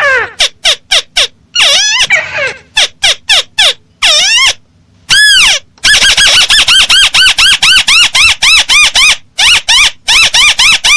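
Recorded calls of a crake (burung tikusan) played as a bird lure: short arched notes, scattered and uneven for the first few seconds, then from about halfway a fast even run of about four notes a second.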